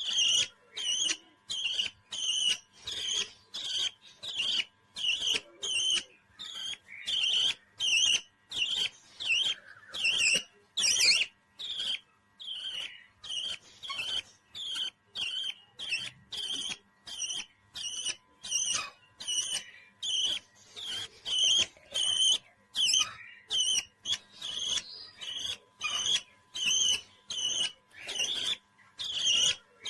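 Parrot calling in short, high chirps repeated evenly at about two a second, with brief gaps between them.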